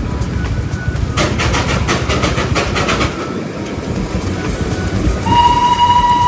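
Darjeeling Himalayan Railway toy train: a rapid clatter from about a second in until about three seconds, then a long single-pitched horn blast that starts near the end and is held, over a steady low rumble.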